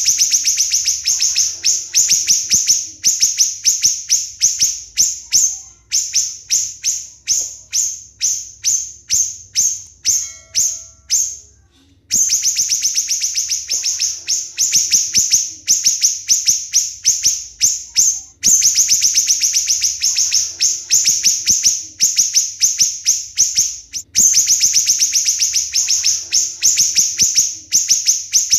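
Siri-siri bird singing loud, shrill, rapid notes in close-packed runs several seconds long, with short breaks between runs: the tight 'tembakan' (shot) song prized as a training master for competition songbirds.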